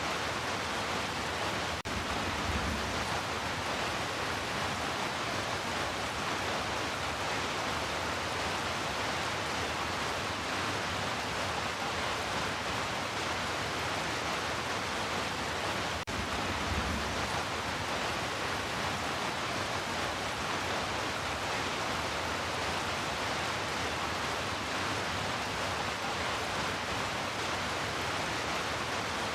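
Heavy rain falling in a steady, even hiss, broken only by two momentary dropouts.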